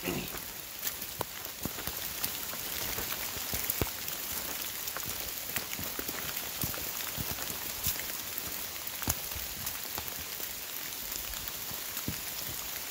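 Light rain falling on the leaves of the woods, an even hiss with many scattered sharp ticks of single drops.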